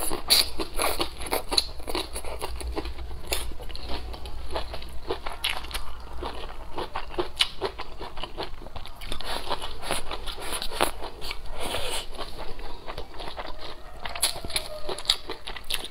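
Close-miked biting and chewing: a whole blistered long green chili pepper is bitten into, then mouthfuls of fried rice with egg and pickled greens are chewed. Many small wet clicks and crunches run steadily throughout.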